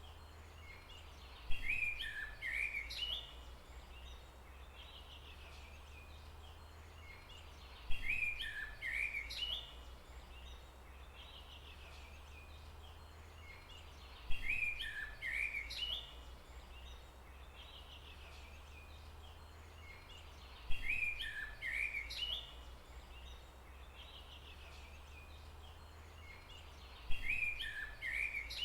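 A bird's song phrase, a quick run of chirping notes lasting about a second and a half, repeated five times about every six and a half seconds, the same phrase each time. Under it runs a steady low rumble and faint hiss.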